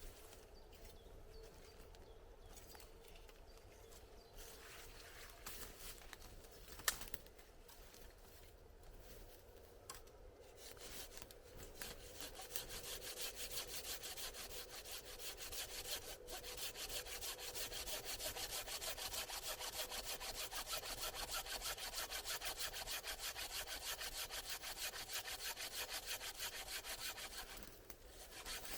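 Hand saw cutting through wood in fast, even back-and-forth strokes, starting up about twelve seconds in after some quieter handling noise and a single sharp click.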